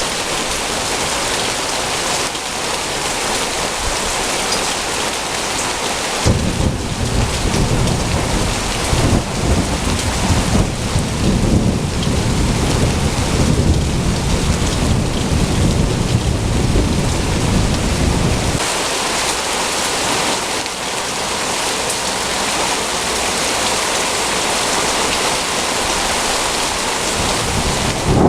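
Heavy rain falling steadily during a thunderstorm. About six seconds in, a long roll of thunder starts and rumbles deep and low for about twelve seconds before ending.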